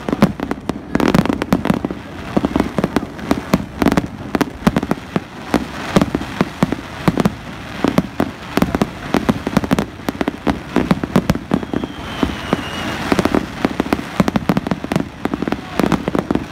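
Fireworks display: a dense, continuous barrage of aerial shell bangs mixed with crackling, many reports a second.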